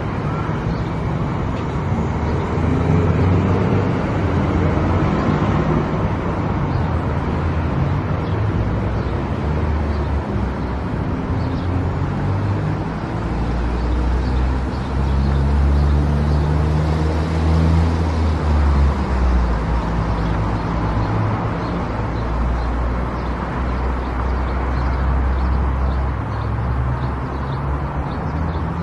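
A car driving on the road: steady engine hum with tyre and road noise. The engine note rises and falls for a few seconds around the middle.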